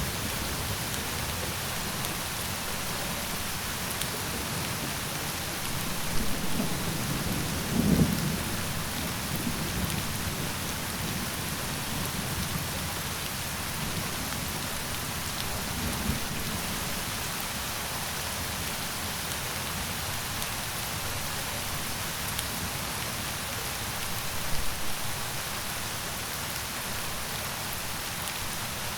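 Steady heavy rain falling, with low rumbles of distant thunder swelling a few times, loudest about eight seconds in and again near the end.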